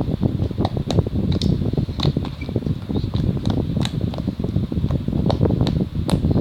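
Wind buffeting the microphone in a heavy, fluctuating rumble, with many short, irregular clicks and pops from slime being squeezed and worked by hand.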